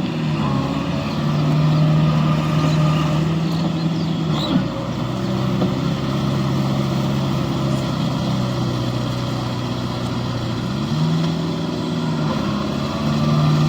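Tractor diesel engine running under load in mud, its revs rising and falling several times: up about a second and a half in, down again around four and a half seconds, up again, and once more near eleven seconds.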